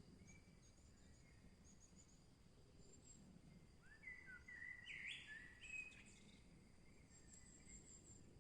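Quiet forest birdsong: faint, high chirps throughout, with a louder, clearer phrase of song notes about halfway through, over a steady thin high tone and a low background rumble.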